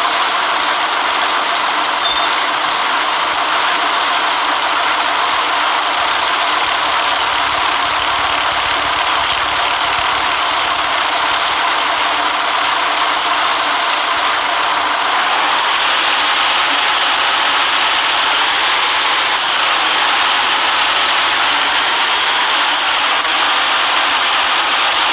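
City bus running along the road: a steady mix of engine and road noise, with a shift in tone about fifteen seconds in.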